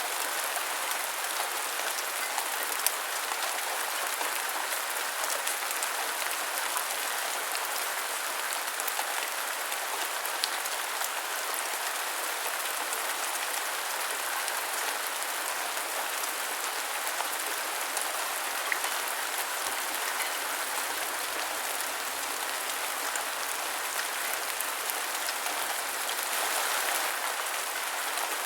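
Steady heavy rain falling on a surface, an even hiss with scattered sharper drop hits.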